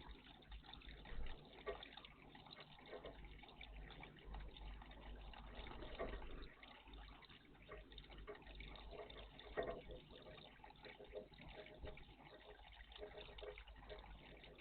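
Faint water trickling and splashing in a garden bird bath, with a few short, sharper splashes about one, six and nearly ten seconds in.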